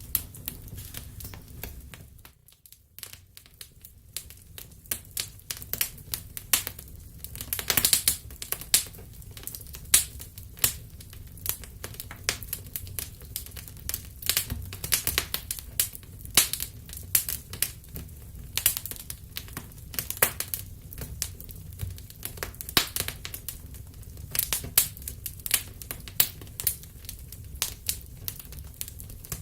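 Wood fire crackling: irregular sharp pops and snaps over a low steady rumble, dropping away briefly about two seconds in.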